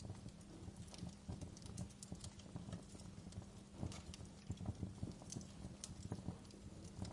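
Wood fire crackling in a fireplace: irregular pops and snaps over a soft low rumble.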